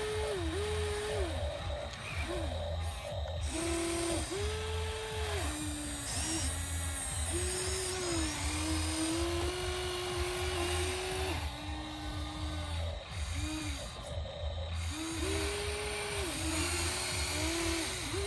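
Small electric motors of radio-controlled toy construction vehicles whining as the controls are worked, the pitch holding steady for a moment and then jumping or gliding up and down.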